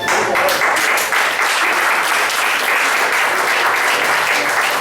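Congregation applauding: many hands clapping at once in a dense, steady patter.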